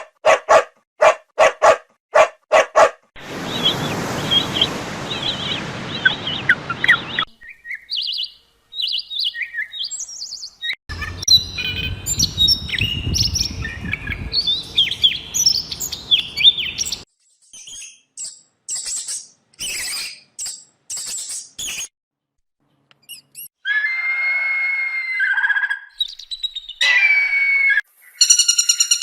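A run of different bird calls cut one after another: rapid short chirps and tweets, some over a rushing background, then longer pitched calls near the end.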